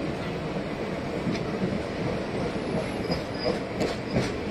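Passenger express train rolling past on the rails, with a steady clatter of wheels and a few sharp clicks over the rail joints.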